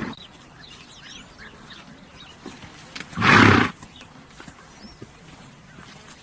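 A horse gives one loud snort, a short noisy blow through the nostrils lasting about half a second, a little past the middle. Faint bird chirps sound in the background.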